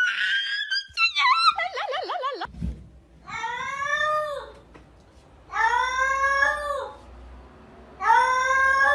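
A high, warbling squeal that slides down in pitch, then, after an abrupt change, a cat giving three long, drawn-out meows about two seconds apart.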